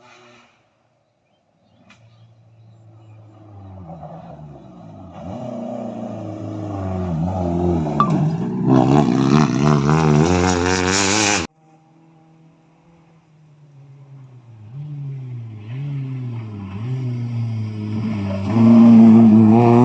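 Rally car engine revving hard up through the gears, the pitch climbing and dropping with each shift and growing louder as the car comes closer. The sound cuts off suddenly about halfway through. Then another run starts, the engine again building up louder through the gears.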